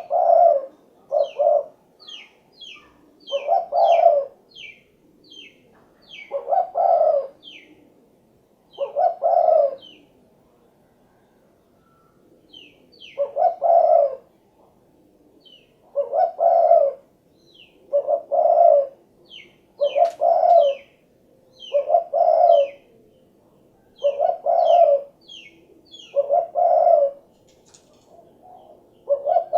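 Spotted dove (derkuku) cooing, a low phrase repeated about every two seconds, with a pause of a couple of seconds about a third of the way through. A small bird's quick, high, falling chirps run over it.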